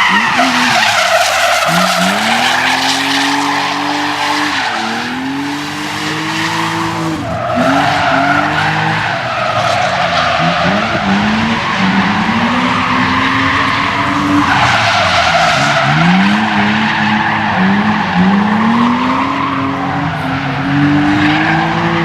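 Drift car sliding with its tires squealing continuously, while its engine revs climb and drop back again and again as the clutch is kicked.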